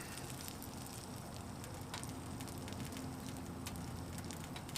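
Wood fire burning in a titanium tent stove: a steady soft hiss with scattered small crackles and clicks.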